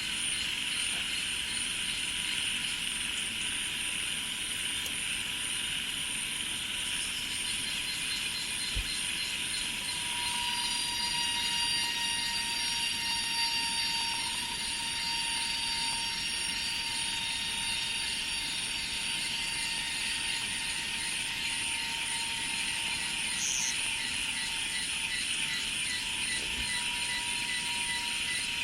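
Dense chorus of insects: a steady high buzzing with fast pulsing rasps. About ten seconds in, a few thin steady whistling tones join and grow stronger.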